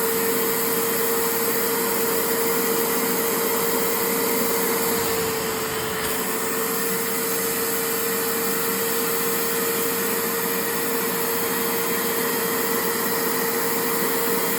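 An electric appliance motor runs steadily, giving a constant whine over an even hiss.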